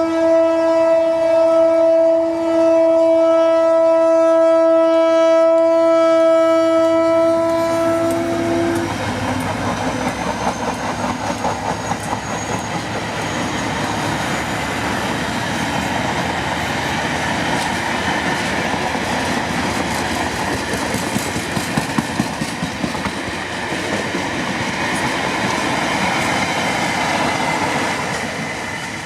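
A GT22 diesel locomotive's horn sounds one long, steady blast that cuts off about eight seconds in. The train then passes close by: a loud rumble with a rhythmic clickety-clack of wheels over the rail joints, easing off near the end.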